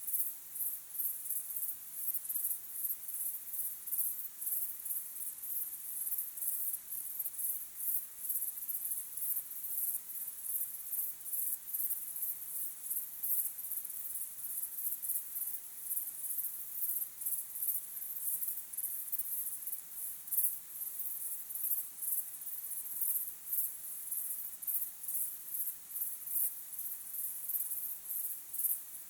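Crickets chirping in a steady chorus, a high-pitched trill pulsing in quick, even beats.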